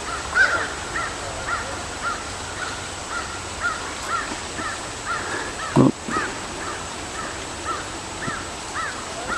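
A bird calling a steady series of short, arched notes, about two a second. A single short low thump about six seconds in.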